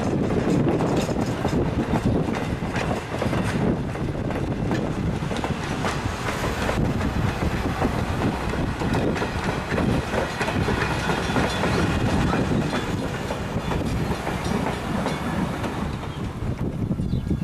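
A steam-hauled passenger train rolling past, its wheels clicking steadily over the rail joints.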